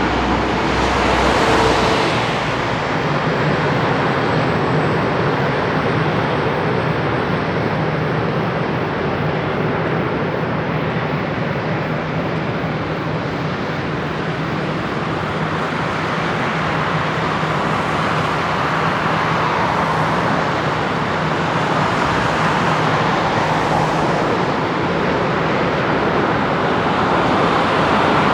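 Jet engines of a Boeing 777F freighter running steadily. It is a continuous loud rush with a low steady hum underneath, swelling slightly near the end.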